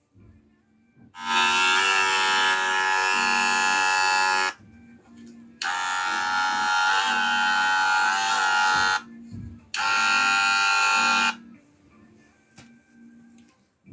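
Wahl Senior hair clipper switched on and off three times, running with a loud steady buzz, about three seconds, then three seconds, then a second and a half. It is being run as a test of whether the blade is at fault.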